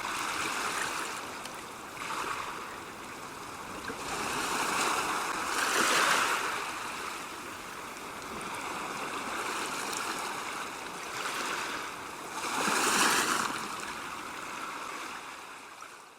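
Water washing in waves, an even rushing that swells loudest about six seconds in and again about thirteen seconds in, then fades out.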